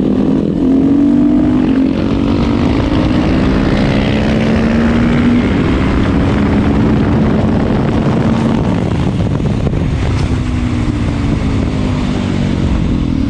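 Motorcycle ridden at speed: the engine runs at high revs under a loud, steady rush of wind, its note drifting slowly lower over the first eight seconds or so and then fading into the wind noise.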